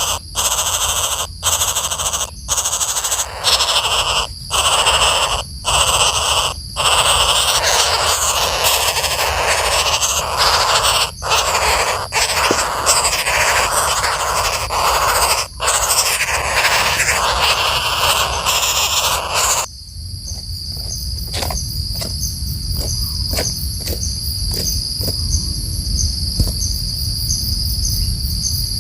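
Loud, harsh bird squawking in long runs broken by short pauses. About twenty seconds in it stops abruptly, leaving a steady, high, pulsing insect trill.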